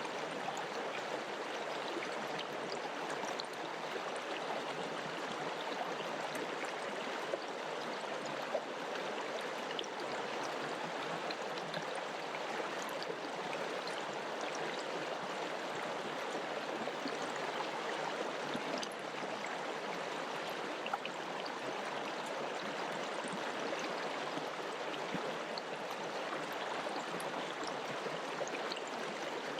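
Mountain river rushing and splashing over rocks, a steady, unbroken water noise with small splashes scattered through it.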